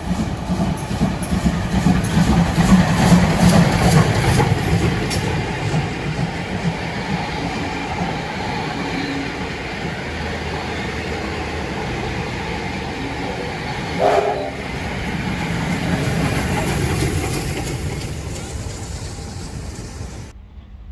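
Train running on rails, loudest over the first few seconds, with a brief pitched sound about fourteen seconds in. It cuts off suddenly near the end.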